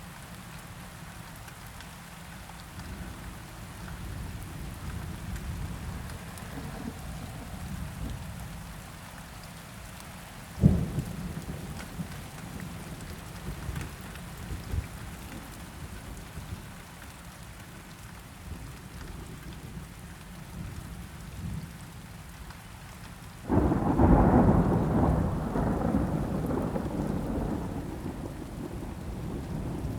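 Steady rain with thunder: a sharp thunder crack about a third of the way in, then a loud thunderclap near the end that rolls on and slowly fades.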